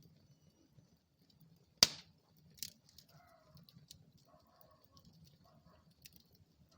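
Wood fire burning in a fireplace: scattered crackles over a faint low rumble, with one sharp loud pop about two seconds in and a smaller pop soon after.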